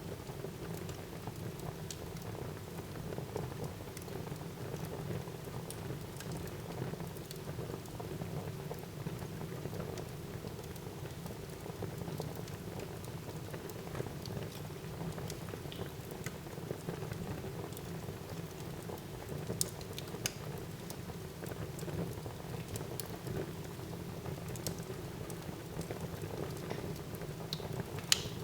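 Wood fire burning in a fireplace: a steady low rush of flames with scattered small crackles, and a sharper pop near the end.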